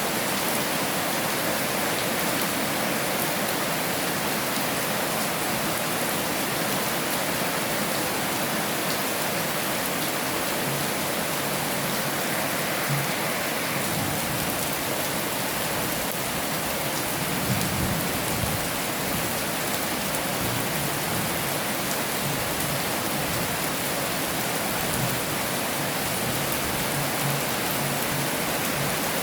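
Heavy rain falling steadily, a dense even hiss of drops on a surface. A brief low thud comes a little past halfway.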